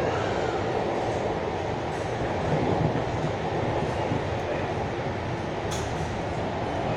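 Steady running noise of an SMRT C651 metro train at the end of its run, heard inside the car, with a short sharp click about six seconds in.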